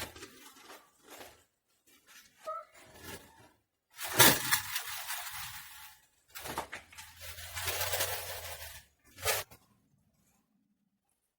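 Bursts of rustling, crackling noise, loudest about four seconds in.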